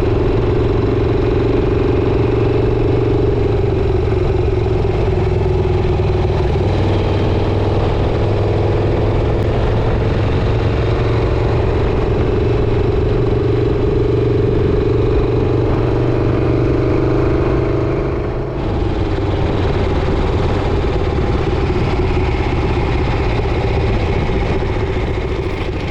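Motorcycle engine running steadily under way, with a small change in pitch about a quarter of the way through and a brief dip in level about two-thirds of the way through.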